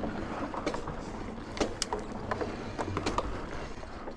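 Mountain bike rolling along a trail: a steady rumble of tyres and riding noise, with scattered sharp clicks and knocks from the bike.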